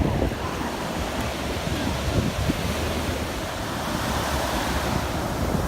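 Ocean surf and wind buffeting the microphone, a steady rush.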